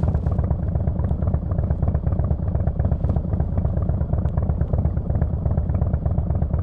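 Harley-Davidson Fat Boy S Screamin' Eagle Twin Cam 110 V-twin running steadily through its Kesstech exhaust, a fast even pulsing beat with no revving.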